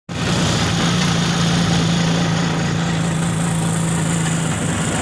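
A vehicle engine running at a steady pitch, with a steady hiss over it.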